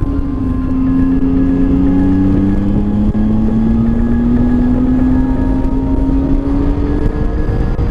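Motorcycle engine running under way, its note rising slowly as the bike gains speed, over steady wind and road noise.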